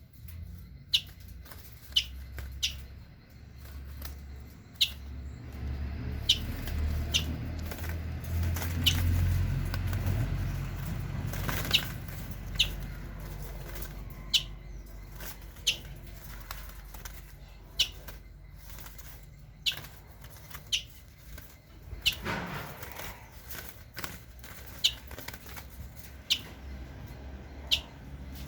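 Small wild birds flapping and fluttering their wings inside a cage. Short, sharp, high chirps come every second or two, and there are heavier bursts of wingbeats about ten seconds in and again a little after twenty seconds.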